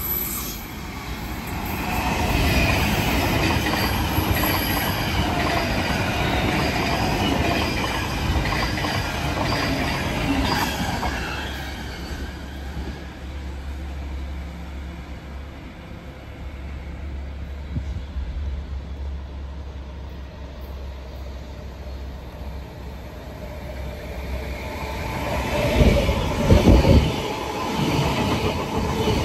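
Intercity V set double-deck electric train running through the station with high-pitched wheel squeal, fading after about twelve seconds. Near the end a second double-deck electric train pulls in close by, growing louder, with a few heavy clunks from the wheels.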